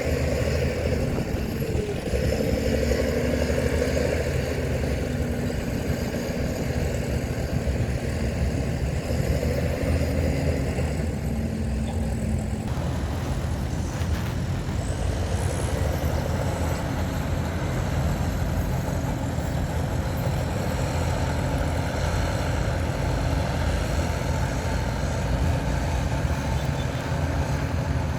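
Heavy diesel earthmoving machinery running steadily: a low engine rumble, with a wavering whine over the first dozen seconds that changes about halfway through.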